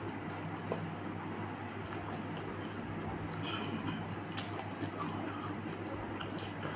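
Quiet chewing of panipuri with a few faint clicks, over a steady low hum.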